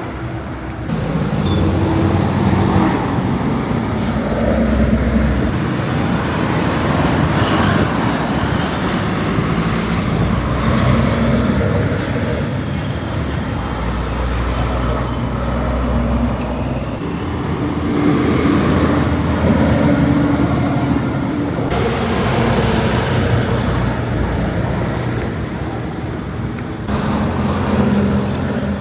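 Heavy trucks driving past on a road: diesel engines running over tyre and traffic noise. The sound changes abruptly several times as one truck gives way to another.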